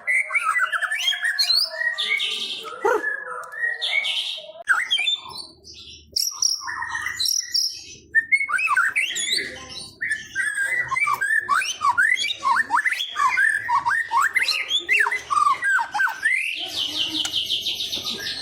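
White-rumped shama (murai batu) singing a long, varied song of whistles and quick slurred notes, ending in a harsh, fast rattling trill.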